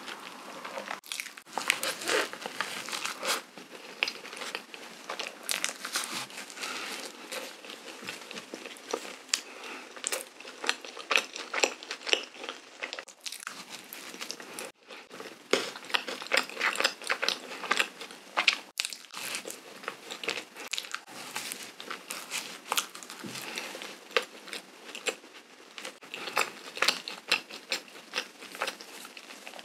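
Close-miked chewing and biting of a cream-filled donut dusted with powdered sugar: soft bread and whipped cream squishing in the mouth, with a dense run of small wet clicks.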